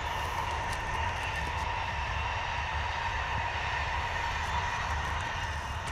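Distant ICE high-speed train running along the line: a steady rush with a faint steady whine, under low wind rumble on the bike-mounted microphone.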